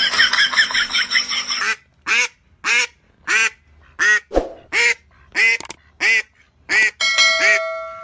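A run of nine short, evenly spaced quack-like calls, about one every two-thirds of a second, after a second or so of dense chattering voice sound. Near the end a steady ringing tone sets in.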